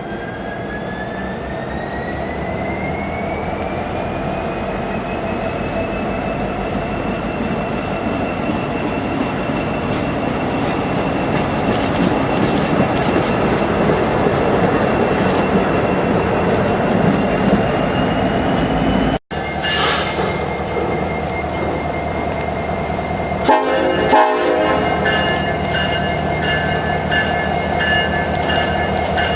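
Freight train rolling past with a steady rumble and a high whine that rises in pitch over the first few seconds, then holds. About two-thirds of the way in the sound cuts abruptly to a passing train with steady high squealing tones and a couple of clanks.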